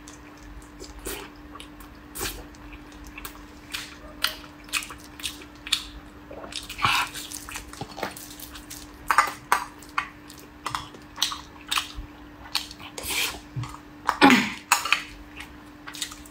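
Close-up wet chewing and mouth smacks of someone eating fatty pork belly, with a spoon clinking and scraping in a glass bowl of rice now and then. A faint steady hum sits underneath.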